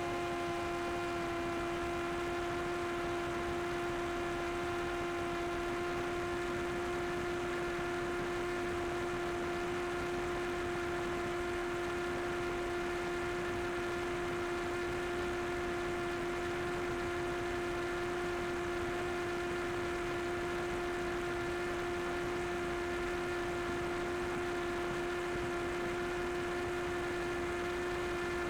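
Camera drone's motors and propellers hovering: a steady, even hum at one unchanging pitch with overtones above it.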